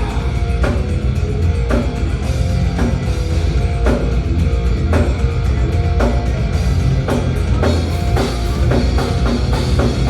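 Thrash metal band playing live: distorted guitar and bass over a drum kit, with heavy drum hits about once a second that come faster near the end.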